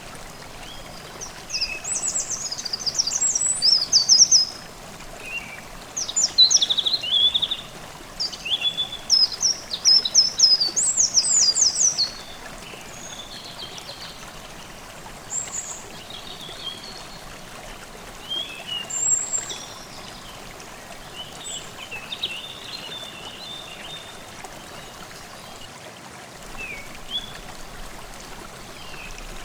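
Forest stream babbling steadily while songbirds sing: a few loud, fast, trilling song phrases in the first half, then quieter scattered chirps and calls.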